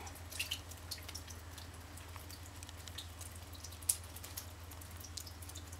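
Scattered light drips and ticks of water, with one sharper click about four seconds in, over a steady low hum.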